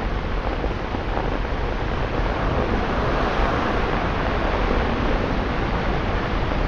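Vehicle tyres rushing through deep standing water on a flooded road, a steady wash of spray that swells from about two seconds in, over the hiss of rain and traffic.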